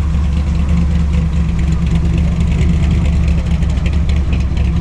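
A car engine running slowly with a steady low rumble.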